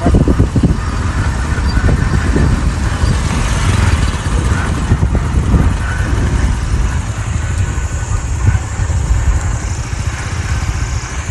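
Motorcycle running along the road, its engine under a heavy wind rumble on the microphone.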